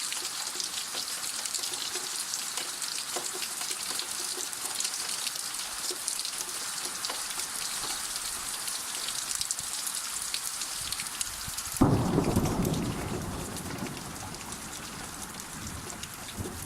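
Steady rain falling, a dense hiss with many single drops ticking. About twelve seconds in, a sudden loud thunderclap breaks in and its rumble fades over a couple of seconds while the rain goes on more softly.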